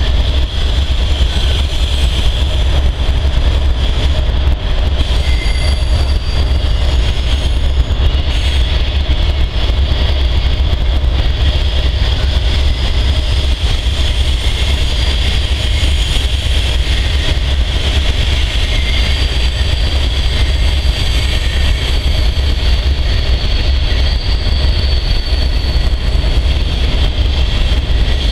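Mixed freight train rolling slowly past on the adjacent track, its wheels rumbling over the rails with a thin steady squeal, over the deep steady hum of a stopped diesel locomotive idling close by.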